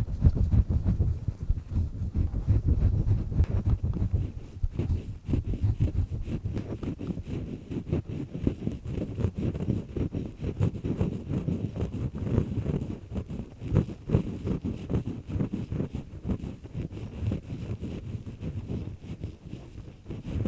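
Earpick scraping inside a human ear canal, recorded up close: a continuous run of low, crunchy scraping and crackling strokes, loudest in the first few seconds.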